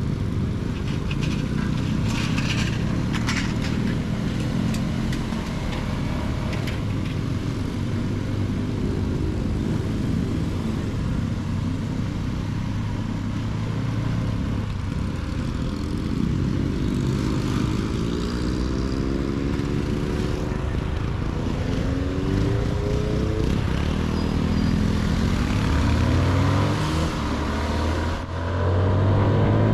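CFMoto motorcycle engine under way, heard from the rider's seat with wind rushing over the microphone. The engine pitch climbs several times in the second half as the bike accelerates, and near the end it drops off briefly, as the throttle is closed for a gear change, then picks up again.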